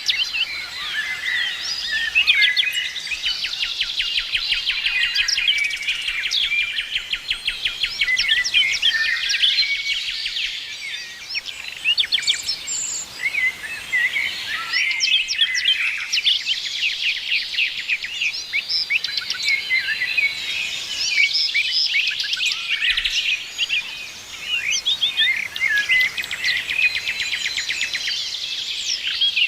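Several songbirds chirping and singing at once in a dense chorus, with fast trills of rapidly repeated notes among the chirps.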